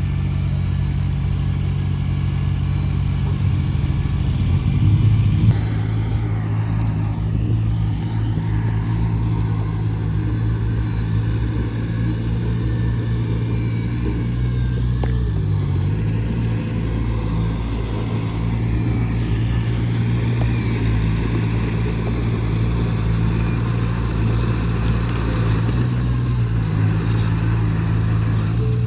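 Diesel engine of heavy earthmoving equipment running steadily under load. It swells briefly about five seconds in, and its pitch dips for a moment about halfway through and again near the end.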